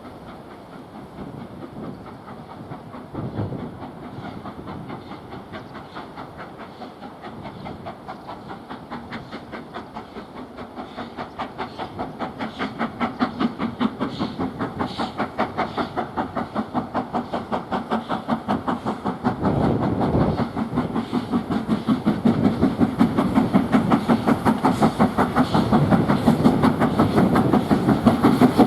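Steam locomotive approaching under power: a fast, even rhythm of exhaust beats with steam hiss, growing steadily louder.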